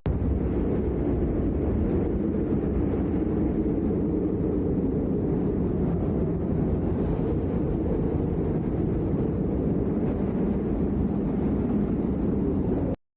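A steady, loud low rumble with no clear pitch, holding even throughout and cutting off abruptly near the end.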